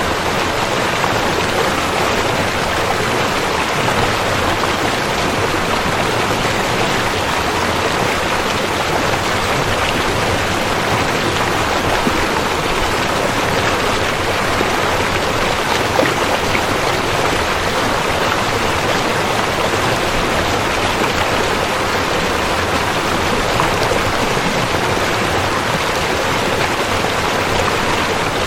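Flowing river water rushing steadily with no change in level.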